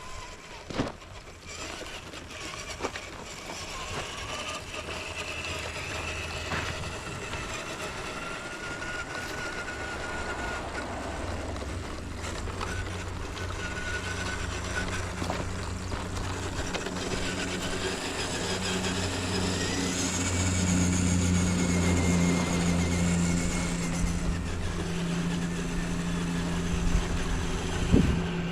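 Small electric motor and gearbox of an RC scale crawler truck whining, the pitch rising and falling with the throttle, over a low hum that builds slowly louder. A sharp knock just after the start and another near the end.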